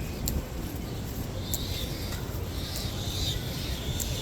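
Outdoor beachfront ambience: a steady low rumble with a few faint high chirps and clicks over it.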